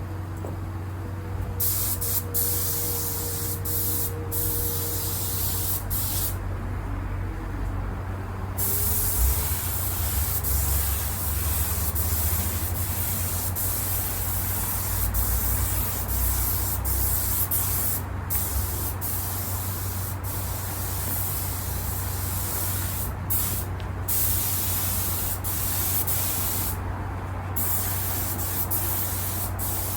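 Trigger spray gun hissing in repeated passes with short pauses, laying down a first light coat of thin clear sealer. A steady low hum runs underneath.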